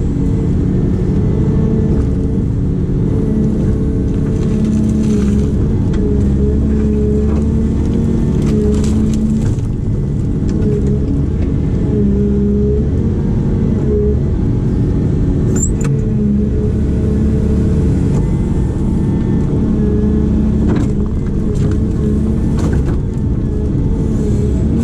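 Diesel engine of a digging machine running steadily at working speed, its pitch shifting a little as the hydraulics take load. Occasional short knocks and clatters come through over it.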